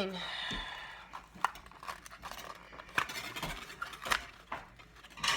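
Scattered light clicks and taps of kitchen items being handled, a handful of separate knocks spread over a few seconds.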